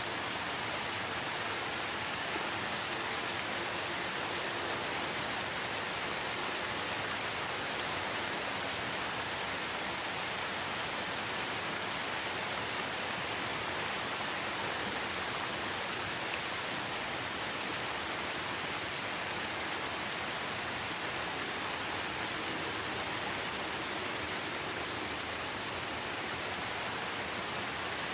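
Steady rain falling, an even hiss with faint patter of drops on surfaces.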